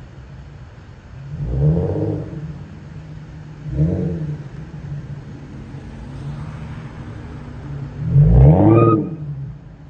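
Infiniti Q50's VQ37VHR 3.7-litre V6 with a muffler delete, idling and revved three times in short blips, each rising and falling back to idle; the third rev, near the end, is the loudest and longest.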